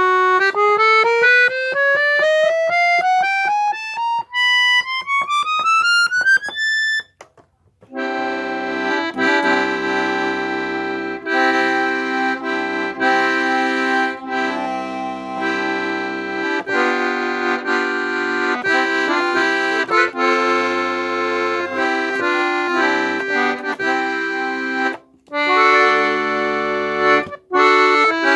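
Parrot accordion being played: a scale of single notes climbing steadily upward for the first seven seconds, then, after a brief pause, a tune with chords and bass notes underneath, broken by two short pauses near the end.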